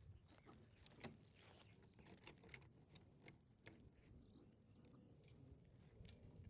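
Faint handling noise: scattered light clicks and rustles, with one sharper click about a second in.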